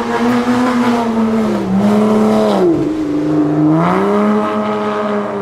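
Porsche Boxster's flat-six engine accelerating away. Its note sinks about halfway through, then climbs again.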